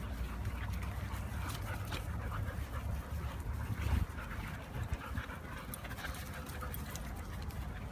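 Faint sounds of dogs, with no clear barking, over a steady low rumble. A thump about four seconds in.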